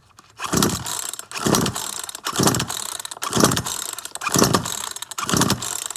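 Recoil pull-starter of a Poulan Pro PR4218 42cc two-stroke chainsaw yanked six times, about once a second, each pull spinning the engine over briefly. The engine does not catch: a saw that will not start.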